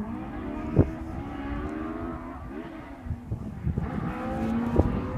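Ford Escort Mk2 RS rally car engine revving, its pitch rising and falling several times, with two sharp cracks, one about a second in and one near the end.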